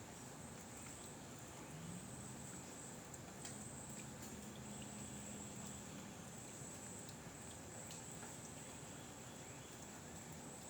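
Faint outdoor ambience with insects chirring in a steady, high-pitched drone, with a few faint clicks. A faint low hum rises slightly about two seconds in and fades out around the middle.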